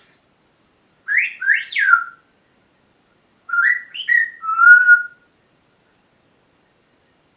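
Pet parrot whistling in two short phrases: three quick swooping notes about a second in, then a longer run of notes about 3.5 s in that ends on a held, level note.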